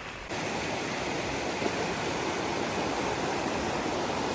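Steady rush of river water flowing over rocks, starting abruptly just after the start.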